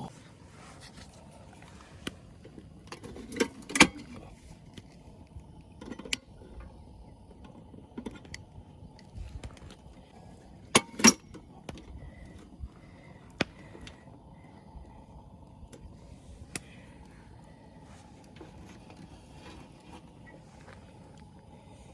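Scattered light clinks and knocks of things being handled, with a few sharper clicks about four seconds in and a close pair around eleven seconds in.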